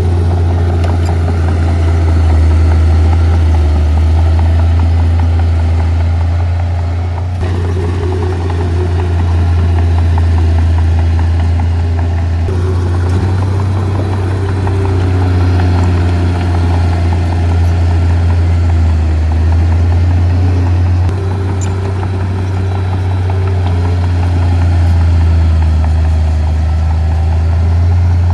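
Heavy earth-moving equipment's diesel engine running steadily, a deep continuous drone, with the sound shifting abruptly a few times.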